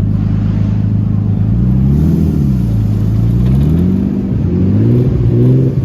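A car engine idling, then revved: the pitch rises and falls once about two seconds in, then climbs again in a few steps near the end.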